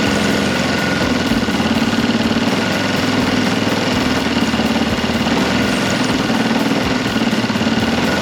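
O.S. GF40 single-cylinder four-stroke gasoline engine of a radio-controlled model airplane running steadily at an even, low speed while it is being tuned.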